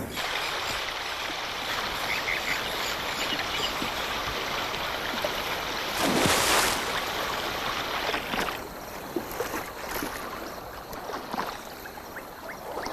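Water lapping and splashing, with one louder splash about six seconds in and smaller splashes and drips after it.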